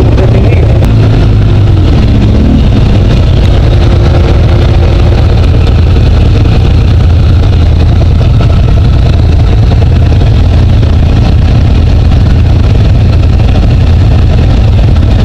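Side-by-side UTV engine running steadily while driving along the trail, heard loud and close from the passenger seat. The engine note shifts a little in the first few seconds, then settles into a steady drone.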